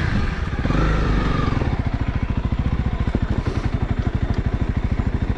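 Honda CRF300L's single-cylinder four-stroke engine idling, its firing pulses quick and even.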